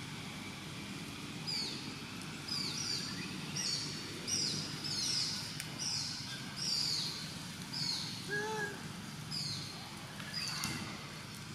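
A bird calling over and over: a long series of short high notes, each sliding down in pitch, about one or two a second, with one lower, arching call near the middle, over a steady low outdoor background noise.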